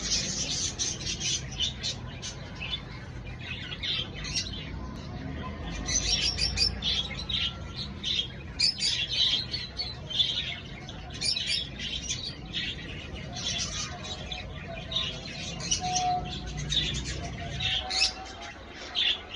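Lovebirds chirping: a steady run of quick, high-pitched calls in clusters. A low hum runs underneath and cuts off near the end.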